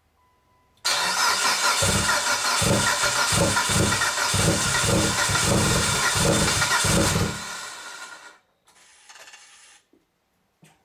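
Car engine cranked on the starter for about seven seconds, chugging rapidly and unevenly as it turns over, but never catching: a no-start. The cranking starts suddenly about a second in and dies away by about the eighth second.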